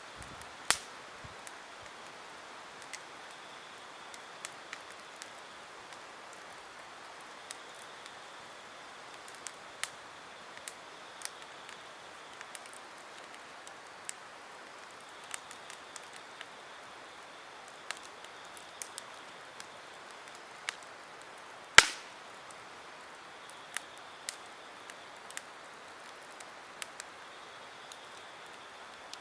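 Campfire wood crackling: scattered sharp pops and snaps over a steady low hiss, with a strong pop just under a second in and the loudest snap about 22 seconds in.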